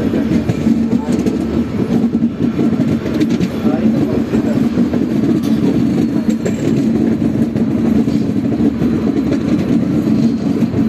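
Passenger train heard from an open coach doorway while running around a long curve: a loud, steady rumble of wheels on the rails with frequent sharp clicks and rattles over a constant low hum.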